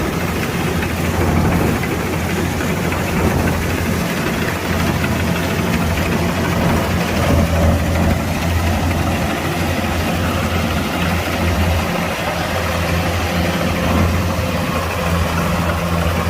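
Kubota DC-105X combine harvester's diesel engine running steadily with a constant low hum and dense mechanical clatter.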